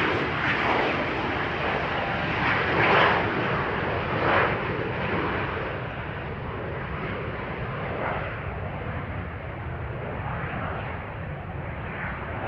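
Embraer Legacy business jet's engines, a steady broad rush of jet noise that slowly fades and grows duller as the aircraft moves away.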